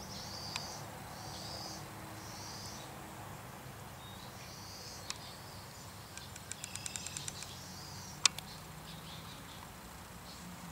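Birds singing: a short, high warbled phrase repeated every second or so, over a low steady hum. Around the middle comes a quick run of about a dozen ticks, then a single sharp click.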